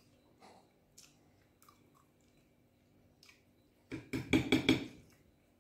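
Mouth sounds of a person eating stew noodles with meat: faint chewing clicks, then about four seconds in a loud, quick run of chewing sounds lasting under a second.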